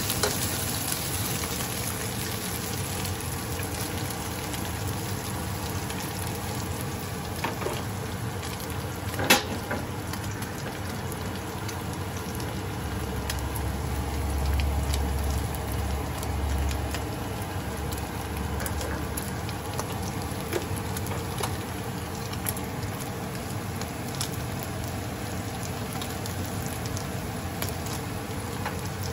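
Flaked mackerel, garlic and onion sizzling steadily in oil in a non-stick frying pan as a wooden spatula stirs them, with scattered small clicks and one sharp knock about nine seconds in.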